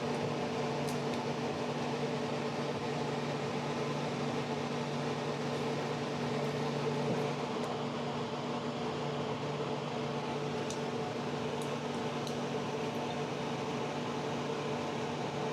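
Steady mechanical hum of a motor-driven room appliance such as a shop fan, with a few faint light ticks.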